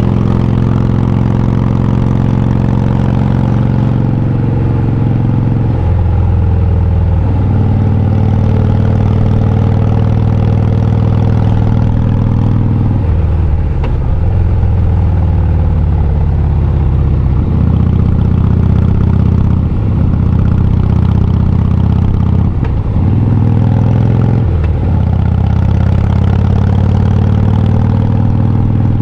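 Harley-Davidson V-twin motorcycle engine and exhaust running under way, heard from the rider's seat. The engine note changes pitch several times, with short dips in level where the throttle is eased and then picked up again.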